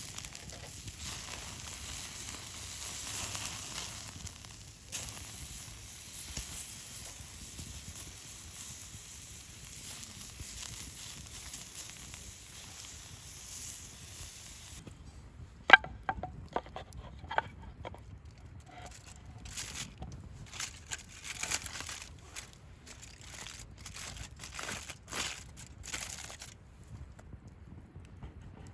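Campfire hissing with fine crackles for about half the time. The sound then changes abruptly to a quieter background with scattered sharp clicks and knocks, the first of them loud and briefly ringing.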